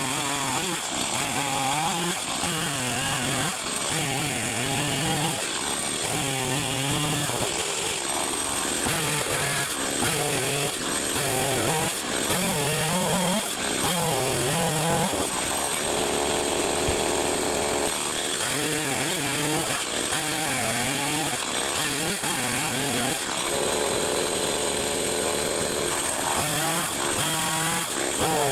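Chainsaw engine revving up and down over and over, as in cutting firewood, held at high speed for a couple of seconds around the middle and again for a few seconds near the end.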